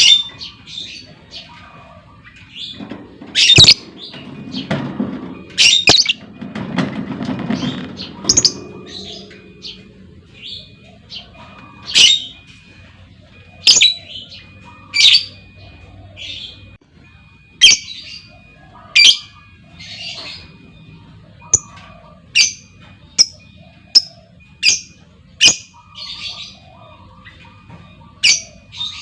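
Female lovebird calling: a series of sharp, shrill single calls, about one every second or two, coming faster in the second half. A low rumble runs under the calls for a few seconds near the start.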